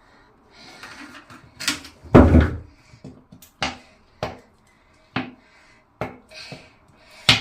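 Objects being handled: a series of sharp clicks and knocks with rustling between them, the loudest a heavy thump about two seconds in.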